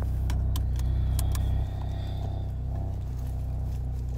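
Car engine running, heard from inside the cabin: a steady low hum that steps down slightly about a second and a half in, as after a fresh start. A few light clicks come in the first second and a half.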